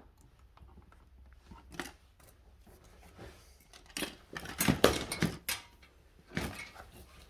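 Clicks, scrapes and rattles of electrical wire and hand tools being handled, busiest about four to five and a half seconds in, with another short burst near the end.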